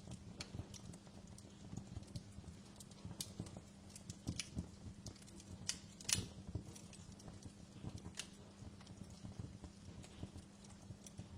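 Wood fire crackling, with irregular sharp pops and snaps, the loudest about six seconds in, over a steady low hum.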